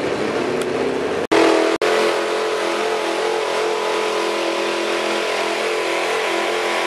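Truck engine held at high revs under load while pulling a weighted sled, a loud steady note that hardly changes pitch. The sound cuts out twice for an instant about a second in.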